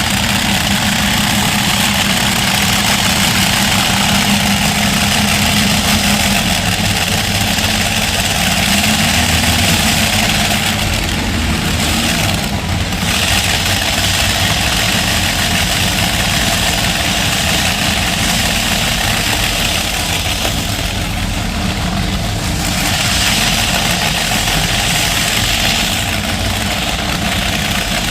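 Modified pulling tractor's engine idling steadily, with a slight rise and fall in pitch about ten seconds in.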